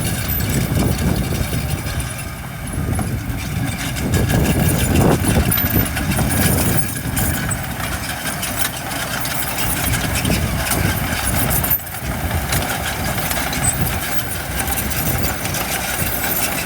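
Heavy diesel equipment engine running steadily, a little louder for a couple of seconds about four seconds in.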